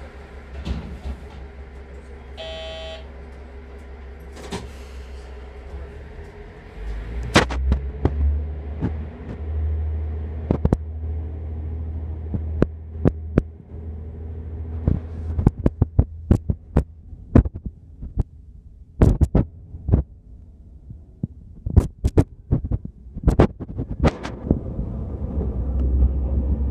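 Local narrow-gauge train running through a tunnel and onto a bridge: a steady low rumble, heard from inside the train, that swells after about seven seconds, with many sharp clicks and clacks of the wheels running over the track. A short pitched tone sounds about three seconds in.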